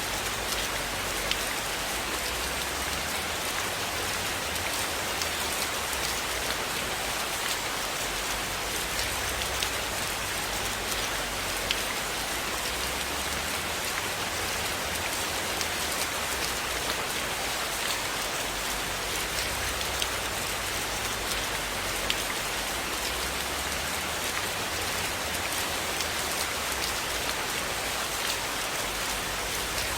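Steady rain falling, an even hiss of drops with scattered sharp little clicks and a soft low rumble that swells and fades.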